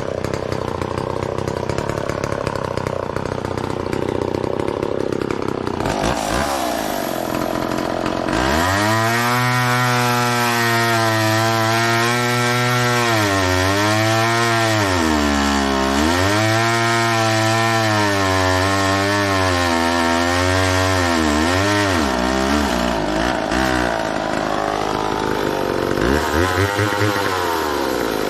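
McCulloch Mac 10-10 two-stroke chainsaw running at high revs and cutting wood. Its engine pitch sags several times as the chain bites into the wood and picks back up in between.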